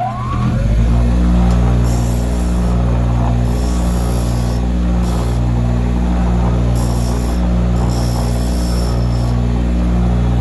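Grinder motor starting and running with a steady hum, while freshly cut pen tube ends are pressed against the wheel in about five short hissing grinding passes to take off the burrs left by cutting.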